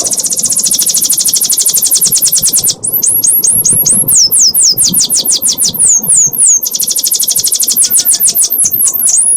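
Domestic canary singing a long 'ngekek' song. It opens with a very fast, high trill, changes about three seconds in to a run of downward-sweeping whistled notes about three a second, and goes back to a fast trill near the end.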